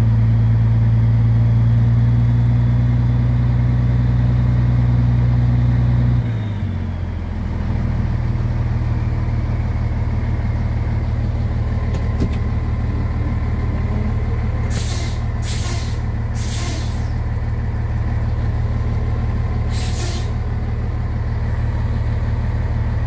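Scania 111S truck's diesel engine held at raised revs, dropping back to a steady idle about six seconds in. In the second half, four short hisses of air from the truck's air-brake system, three close together and one a few seconds later.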